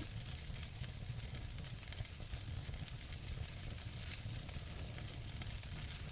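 Wood fire burning in a fireplace: a steady hiss with many small crackles and pops, over a low rumble.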